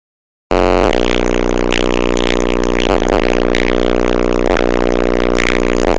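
Music played loudly through a Skoda Felicia's car audio system, starting suddenly about half a second in, with strong deep bass.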